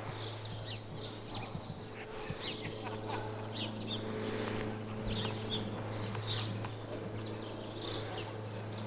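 Cessna 172S Skyhawk's four-cylinder piston engine and propeller droning steadily as the plane flies over, a little louder midway. Small birds chirp repeatedly over the drone.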